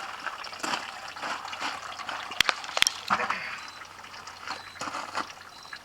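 Hydraulic oil trickling and splashing out of an opened crane hydraulic cylinder, with two sharp metal clicks about two and a half seconds in.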